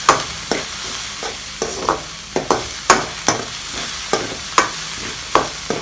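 Chopped onions and green chillies sizzling in oil in a pan while being stirred. The utensil scrapes and knocks against the pan in sharp strokes, about two to three a second, over the steady sizzle.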